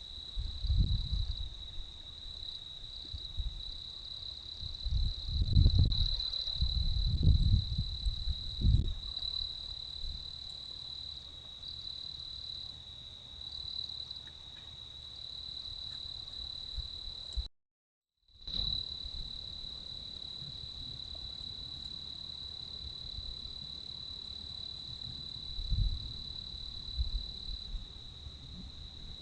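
Steady high-pitched drone of insects. It cuts out completely for about a second past the middle. A few low rumbles come early on and again near the end.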